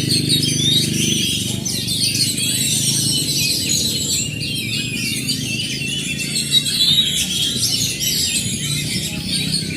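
Oriental magpie-robins singing together, a dense overlapping tangle of chirps, whistles and trills, over a steady low hum.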